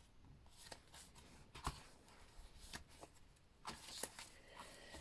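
Faint rustling and a few light taps of paper and card as the pages of a chunky handmade journal are handled and turned.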